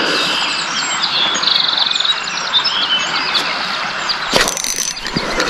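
Birds chirping and singing, with short calls and a fast trill, over a steady outdoor noise background. A brief sharp knock comes about four and a half seconds in.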